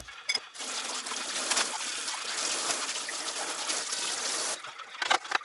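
Liquid being poured in a steady trickle for about four and a half seconds, then stopping abruptly, followed by a couple of light clicks.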